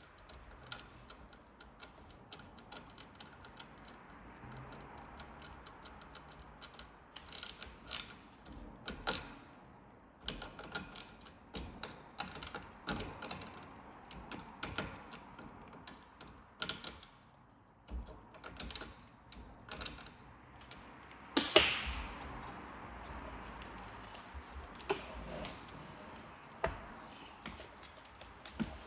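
Irregular clicks, taps and knocks of small metal and plastic parts and hand tools being handled, with one louder clunk about two-thirds of the way through.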